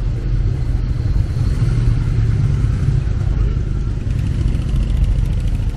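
Citroën CX engine running steadily with a low hum, slightly louder for a moment about two seconds in.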